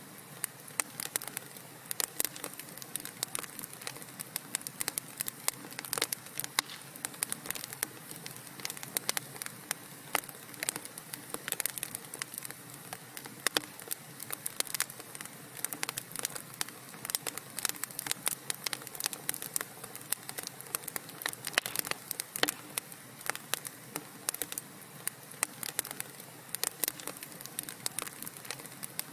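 Wood fire burning in a fireplace, crackling and popping in a continuous irregular stream of sharp snaps over a soft hiss.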